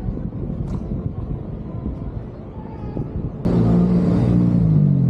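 Low vehicle rumble, then about three and a half seconds in an abrupt switch to a louder engine running close by with a steady pitch that dips briefly near the end.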